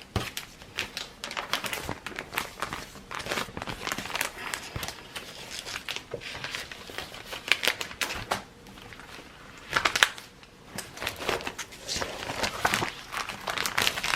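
Sheets of patterned craft paper rustling and crinkling as they are handled and slid back into their pack, in irregular spells with the loudest rustles about 7½ and 10 seconds in.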